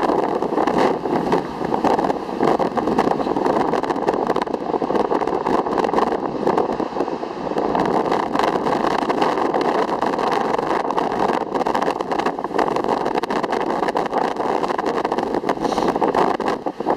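Steady loud rush of ocean water and wind, with many quick crackling buffets running through it.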